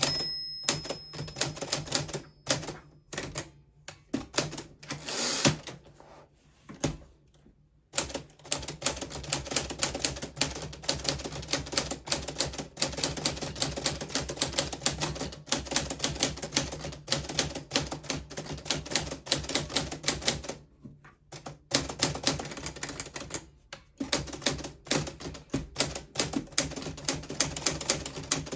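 Keys of a 1940s Smith Corona Silent manual typewriter striking. There is a short ring at the very start and scattered strokes for the first few seconds, then fast steady typing from about eight seconds in, broken by brief pauses.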